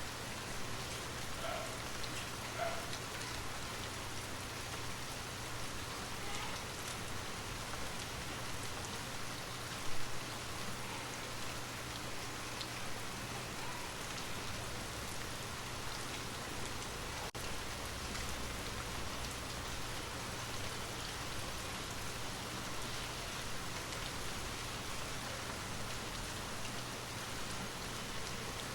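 Steady rain falling, an even wash of rain noise with one brief louder moment about ten seconds in.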